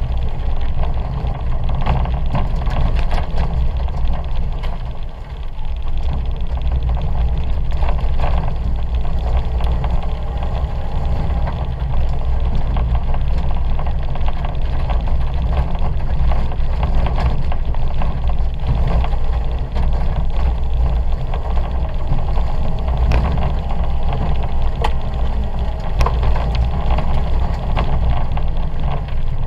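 Ford Fiesta 1.2's engine running hard at racing revs, heard from inside the cabin as a heavy, steady low rumble mixed with tyre and spray noise on a wet dirt track. The level drops briefly about five seconds in, and a few sharp knocks come later.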